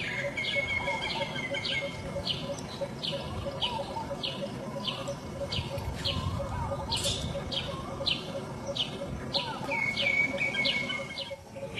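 A bird chirping over and over, about two short high chirps a second, with longer level whistles near the start and again near the end, over a low rumble.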